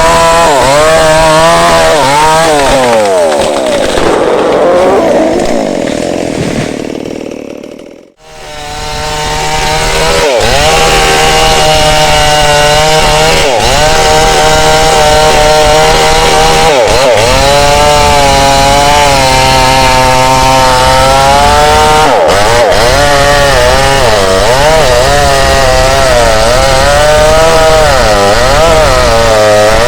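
Tanika MS 5800 two-stroke chainsaw running at high revs while cutting into a candlenut tree, the engine pitch rising and falling under the load. About eight seconds in the sound falls away in pitch and level, drops out for a moment, then comes back at full speed.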